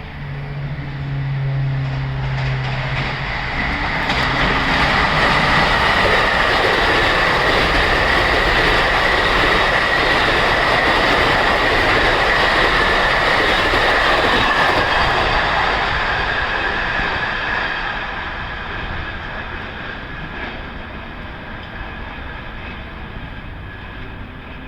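Ten-car LIRR M3 electric multiple-unit train running through a station at speed without stopping. Its horn cuts off about two seconds in, then the rush of wheels on rail builds and stays loud for about ten seconds with a steady high whine over it, before fading away.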